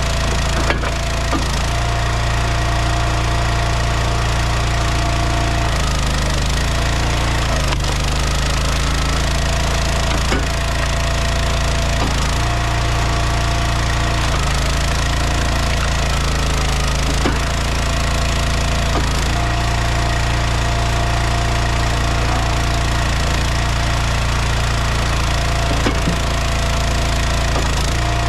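A log splitter's engine runs steadily. Its low note changes every few seconds as the splitter works, and there are a few sharp clicks and knocks along the way.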